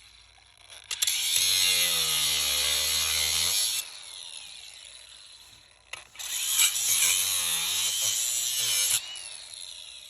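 A handheld power tool running in two bursts under load, one of about two seconds and a longer one of about three seconds, its motor pitch sagging as each burst starts.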